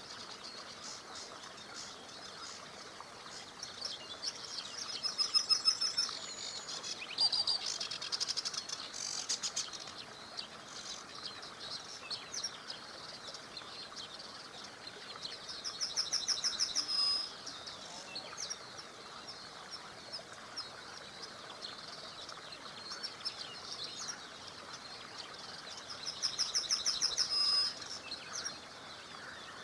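Songbirds singing over the steady rush of a small river. The loudest songs are rapid trills of short high notes, each lasting about a second, heard four times: about 5 seconds in, around 8 seconds, midway, and near the end.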